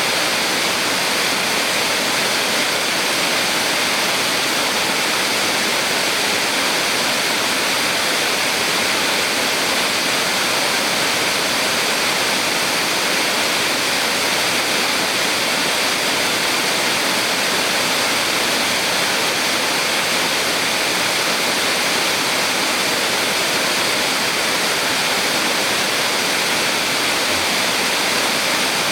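Small waterfall on a mountain stream, a steady rushing of falling water.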